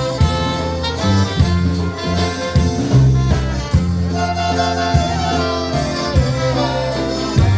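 Live polka band playing a waltz: an instrumental passage with sustained melody notes over a moving bass line.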